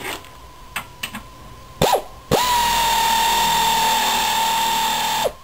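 A small air tool driving the screw of a car's scissor jack that has been converted to be powered by it. It spins briefly, then runs at a steady high whine for about three seconds as it cranks the jack, and winds down near the end.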